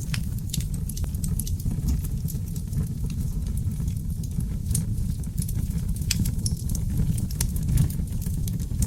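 Seasoned oak logs burning in a fireplace: a steady low rumble of flames with irregular sharp crackles and pops, a few each second.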